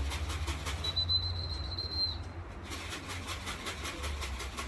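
A steady, high electronic beep about a second long, from an electronic pigeon-racing clock registering a returning bird, over a low wind rumble on the microphone.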